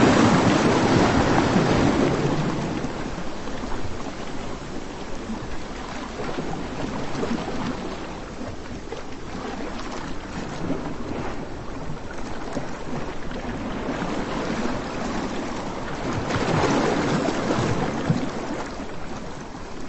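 Sea surf on a beach: a steady rush of breaking waves, swelling loudest at the start and again about sixteen seconds in.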